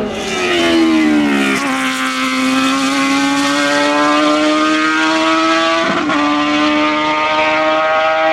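Race car's engine under full throttle on a hill climb: the pitch drops over the first second and a half, then climbs slowly as the car pulls hard through a gear. There is a quick gear change about six seconds in, and then it climbs again.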